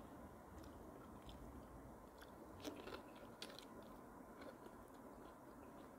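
Faint close-up chewing of lettuce and fish, with small wet mouth clicks and a few light crunches, most of them about three seconds in.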